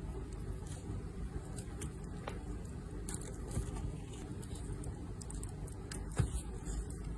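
Light squishing and scratching with small scattered clicks from a squeezable stress-relief toy being handled, over a steady low hum; one sharper tap about six seconds in.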